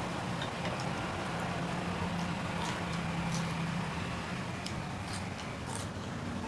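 Crisp crunching of raw vegetables being bitten and chewed: a scattering of short, sharp snaps. A steady low hum runs underneath.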